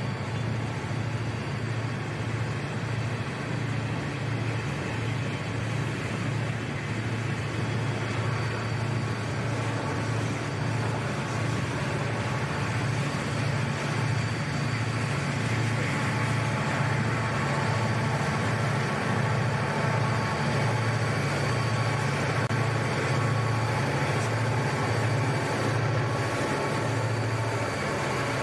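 Freight train rolling past, its cars' wheels rumbling on the rails, under the steady pulsing drone of Conrail diesel locomotives at the rear of the train, which grows a little louder as they come by.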